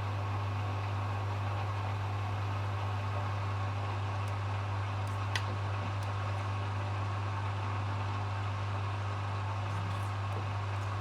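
Hoover HW411AMC washing machine during its final spin, running with a steady low hum and even whirr. There is a faint click about five seconds in.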